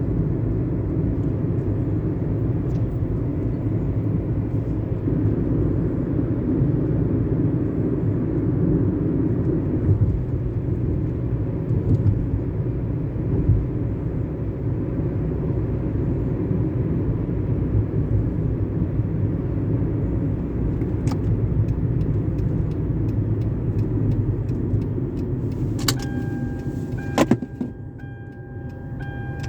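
Car being driven, heard from inside the car: a steady low rumble of engine and tyres. Near the end there are two sharp clicks, the rumble drops, and a steady high tone comes in.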